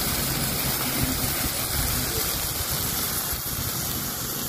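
Wet kelakai fern shoots sizzling in a hot cast-iron wok, a steady hiss, with a vehicle engine idling low underneath.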